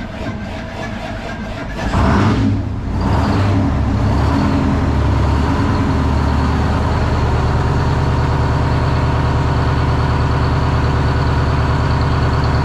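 Detroit Diesel engine starting after sitting a few months. The starter cranks for about two seconds, the engine catches with a loud burst, then settles into a steady idle.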